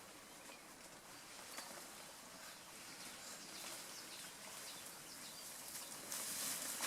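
Faint mountain-forest ambience: soft rustles and scattered light crackles of vegetation, with faint bird or insect calls in the background, growing a little busier near the end.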